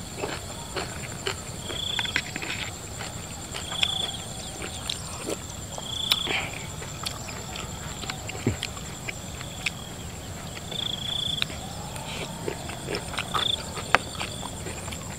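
Open-mouth chewing and lip-smacking while eating spicy raw shrimp salad, with many short wet clicks and crunches. Crickets trill steadily, high-pitched, behind it, and a short high chirp recurs every couple of seconds.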